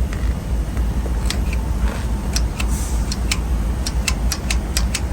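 Semi-truck diesel engine idling with a steady low rumble, and from about a second in a sharp, rapid ticking of about four ticks a second.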